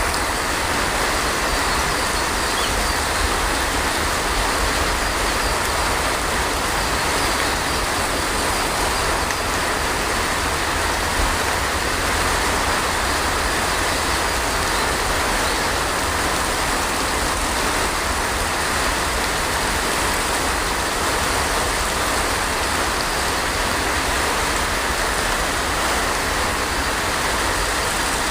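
Heavy rain falling steadily, an even, unbroken hiss with a steady low rumble beneath it.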